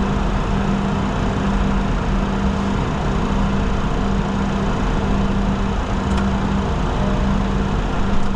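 Steady flight-deck noise of a Bombardier Challenger 604 in flight: an even rush of airflow with a constant low hum underneath.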